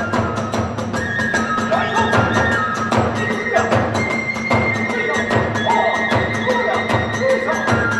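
Kagura hayashi ensemble playing: a flute holds and bends high notes over fast, steady strokes of drums and hand cymbals.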